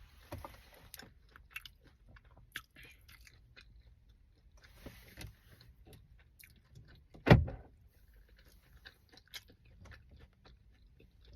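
A person chewing and biting into a strawberry biscuit, with soft intermittent mouth clicks and crackles, and one louder thump about seven seconds in.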